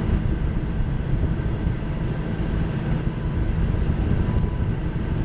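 Kubota L3940 compact tractor's diesel engine running steadily, heard from inside its enclosed cab.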